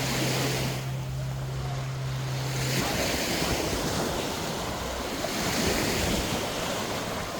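Wind rushing over the microphone with water noise, under a steady low hum that cuts off about three seconds in.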